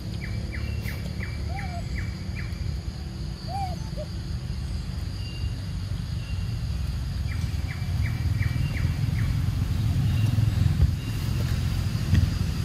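A steady low rumble, with a bird calling twice in quick runs of six or seven sharp chirps, about three a second, and a few faint higher peeps between.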